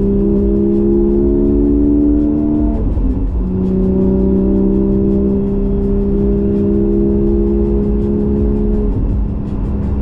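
Porsche 718 GTS 4.0's naturally aspirated 4.0-litre flat-six, breathing through a Kline stainless exhaust with its valves open, pulling steadily in one gear. A quick upshift comes about three seconds in, then it pulls again in the next gear until it eases off near the end.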